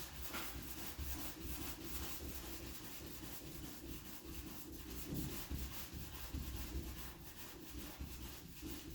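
400-grit sandpaper rubbing steadily over cured 2K high-build primer on a car body panel, a continuous scratchy sound. The sanding is levelling the primer's orange-peel pit marks to get the panel ready for paint.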